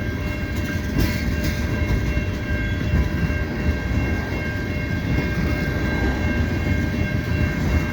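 Long, slow freight train of tank cars rolling past on the rails, a steady rumble with faint steady high-pitched wheel tones. A couple of sharp clicks about a second in.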